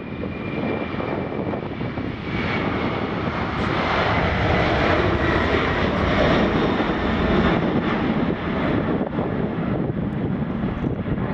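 Four-engine Boeing 747 jet airliner at takeoff power on departure, a steady jet rumble. It swells about two seconds in and is loudest around the middle, with a faint high whine over it.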